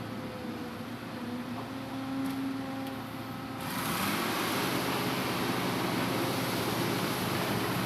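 Hitachi Zaxis 200-5G excavator's diesel engine running with a slightly wavering pitch. About three and a half seconds in, a loud rushing hiss joins and the sound grows louder.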